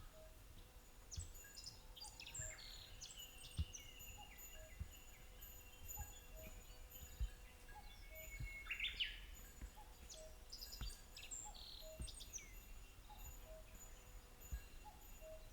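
Several wild birds chirping and singing, short calls and trills overlapping, with a soft note repeating about once a second and occasional faint low thumps.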